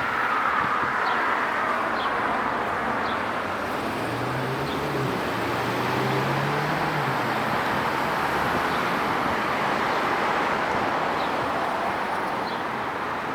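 Road traffic passing on a city street: a steady wash of tyre and engine noise that swells and fades as vehicles go by, with a low engine hum from one vehicle for a few seconds in the middle.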